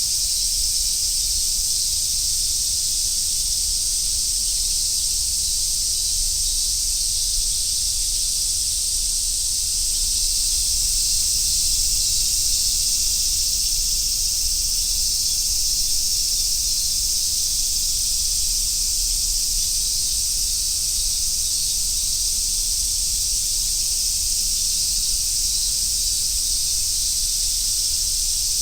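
Summer cicada chorus: a steady, high sizzling drone that goes on without a break.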